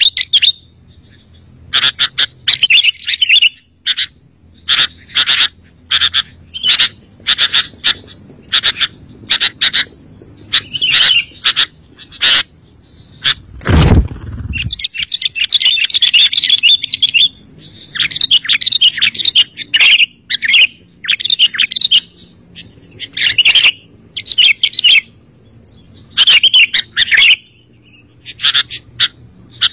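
Sooty-headed bulbuls (kutilang) chirping and singing in quick bursts of bright, chattering notes, with short pauses between phrases. A single dull thump sounds about fourteen seconds in.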